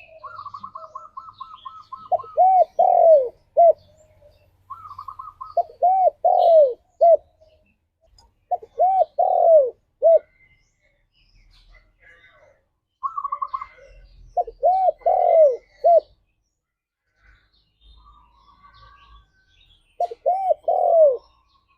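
Spotted dove (tekukur) singing its cooing song: five repeated phrases of a few rising-and-falling coos each, spaced a few seconds apart. Quick runs of higher-pitched stuttering notes come before several of the phrases.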